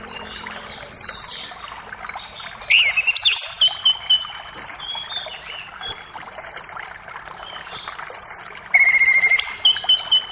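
Several songbirds calling, one repeating a short high whistled note every second or two, with other chirps and a buzzy trill near the end, over a steady rush of creek water.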